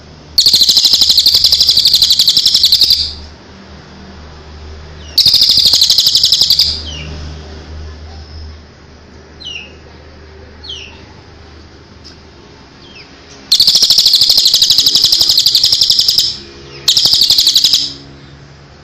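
A songbird singing loud, very rapid buzzy trills in four bursts of one to three seconds each, with a few short, faint downward chirps in between.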